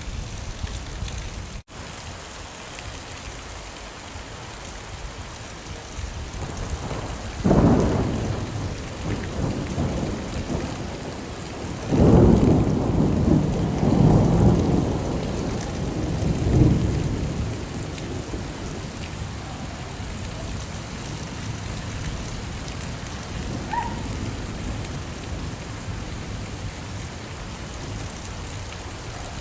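Steady rain falling, with thunder rumbling: one roll about seven seconds in and a longer, louder one from about twelve to seventeen seconds in.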